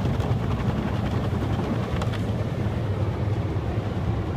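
Steady low rumble with a constant wash of noise, heard from inside a car's cabin.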